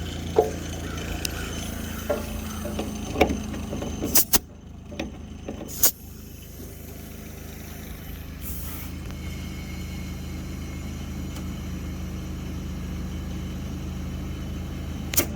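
Steady mechanical hum as air is fed into a tow truck's suspension airbags to lift the rear, with several sharp clicks in the first six seconds and a short burst of air hiss about eight and a half seconds in.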